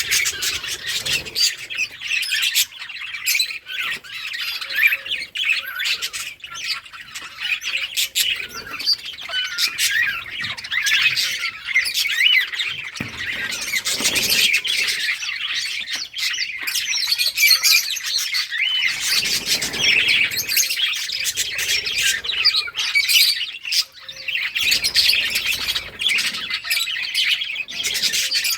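A flock of budgerigars chirping, warbling and squawking together in a continuous, overlapping chatter.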